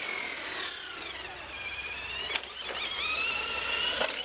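Radio-controlled monster trucks racing just after the start: a high electric-motor whine that rises and falls as the throttle is worked, with a couple of sharp knocks from the trucks.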